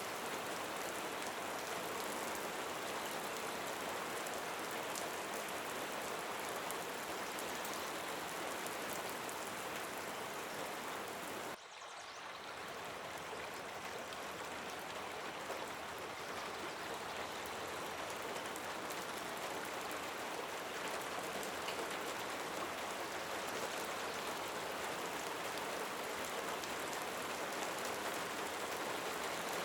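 Steady rain with a fine patter of drops. About twelve seconds in, the sound drops away abruptly and swells back up over the next few seconds.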